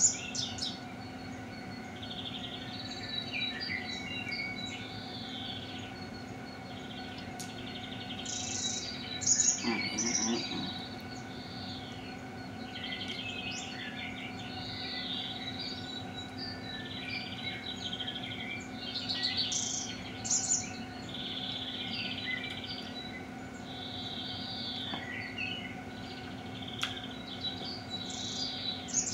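Songbirds chirping and trilling throughout, many short calls, over a steady low hum, with a brief louder moment about nine to ten seconds in.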